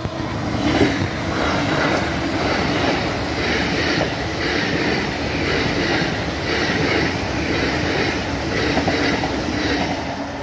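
Hitachi Class 800 InterCity Express Train passing at speed on diesel power: a loud rush of engine, wheel and rail noise, loudest about a second in as the front goes by. Through the pass, a regular pulse of wheel noise comes about once a second as each carriage's bogies go by, and the sound eases near the end as the train draws away.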